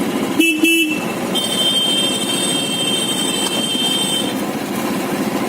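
Steady motorcycle engine and road noise while riding in traffic, with two short horn beeps about half a second in, then a high steady tone lasting about three seconds.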